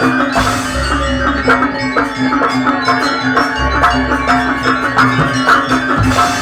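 Live traditional music played by a percussion ensemble: drums and other struck instruments keeping a steady, rhythmic beat over a held low tone.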